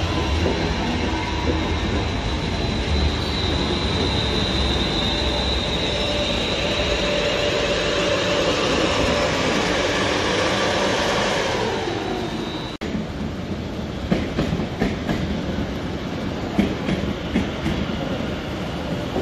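Class 350 Desiro electric multiple unit running through the platform: a steady rumble of wheels on rail with a high motor whine, which falls in pitch and fades about twelve seconds in. It gives way to a quieter run of irregular clicks as wheels pass over rail joints.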